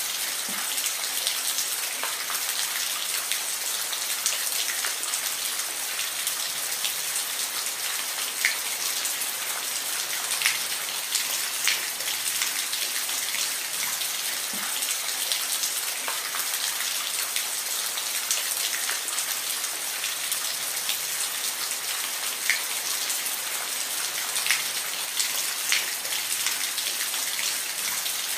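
Steady rain, an even hiss with scattered individual drops ticking sharply on a surface.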